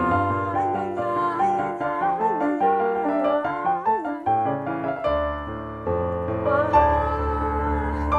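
A slow, gentle Chabad nigun played on a keyboard in a piano sound, with held chords under a wordless melody line that glides like a voice.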